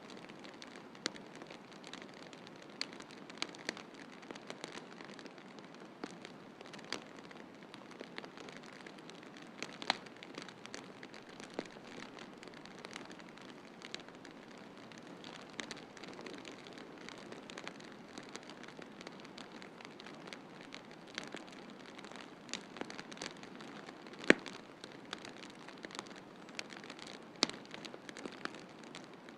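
Wood fire in a fireplace crackling, with irregular sharp pops over a steady soft hiss; one pop about three-quarters of the way through is the loudest.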